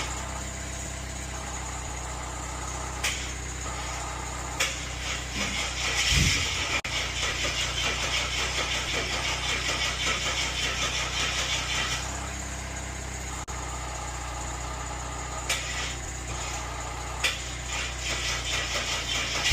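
Car engine idling steadily, with a few sharp clicks and a short louder burst about six seconds in.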